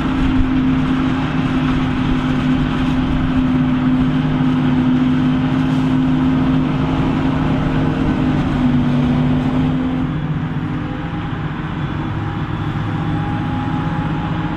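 Big diesel engine of heavy farm machinery running hard under steady load, with a low, even drone. About eight to ten seconds in, its pitch sags slightly and it gets a little quieter.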